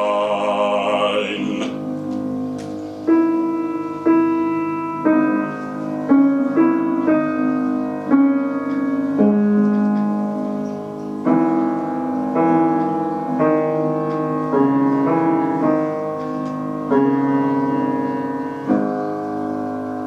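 A baritone's final held note, with vibrato, ends about a second and a half in. Then a solo piano postlude follows: a series of struck chords, roughly one a second, each left to ring, with the last one dying away near the end.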